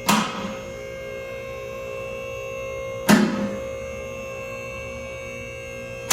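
Vehicle lift raising a truck: the electric hydraulic pump hums steadily while three sharp metallic clanks ring out about three seconds apart, typical of the lift's safety locks catching as it climbs.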